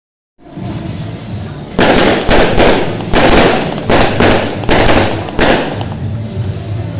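Fireworks going off: a quick run of about eight loud bangs with short rumbling tails, starting about two seconds in and thinning out near the end.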